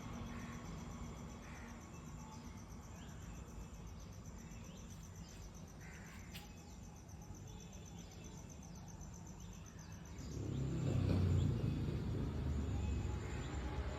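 Faint scattered bird calls over a steady high insect trill in open-air ambience. About ten seconds in, a low rumble swells up and becomes the loudest sound.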